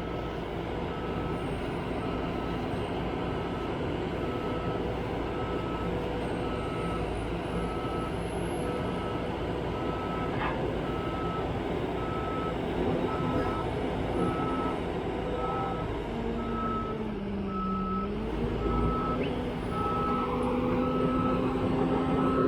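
Reversing alarm on a construction vehicle beeping in a steady, even rhythm over its running diesel engine; the engine note dips and comes back up about three-quarters of the way through.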